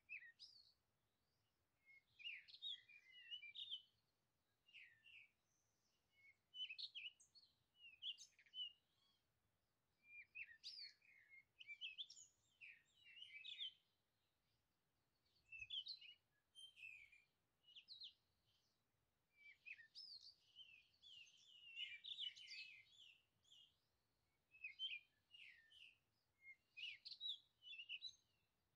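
Faint songbirds chirping and twittering: quick phrases of high notes, one after another every second or two.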